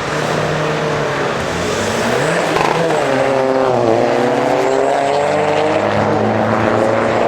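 Car engines running loud, one rising in pitch, then falling and climbing again in the middle, over other engines holding a steady note.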